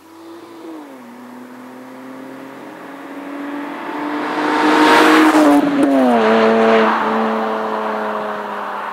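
Car engine and exhaust accelerating by, the engine note climbing slowly and then stepping down in pitch twice. It grows louder to a peak about five seconds in, then fades somewhat.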